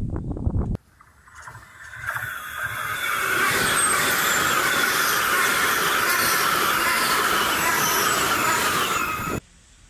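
Passenger train passing at close range on the adjacent track: a loud rush of wheel and air noise with a thin, high squeal from the wheels on the rails. It builds over the first couple of seconds, holds steady and cuts off suddenly near the end. It follows a brief low rumble at the very start.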